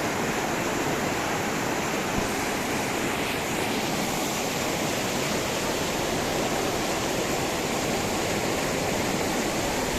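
Steady rush of fast-flowing river water over rocks, an even noise with no breaks.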